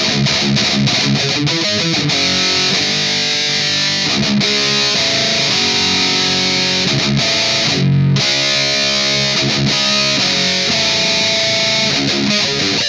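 Distorted electric guitar riffing: a steady run of picked notes and chords, with a brief low, dull chord about eight seconds in.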